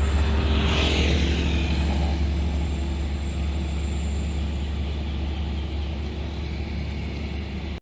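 A train's deep rumble with a low engine drone, slowly fading as it moves away, with a brief hiss about a second in.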